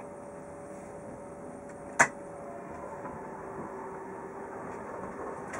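Passenger train running, heard from inside the carriage: a steady rumble and hiss with faint steady whining tones that shift pitch about three seconds in. A single sharp click about two seconds in.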